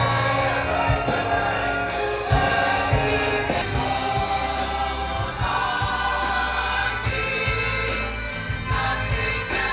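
A choir singing with instrumental accompaniment, over low bass notes and a steady beat of percussive strikes.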